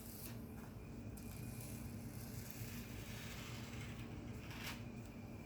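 Faint crinkling and tearing of plastic wrap as a package of raw chicken breasts is opened, with a few light handling sounds over a low steady hum.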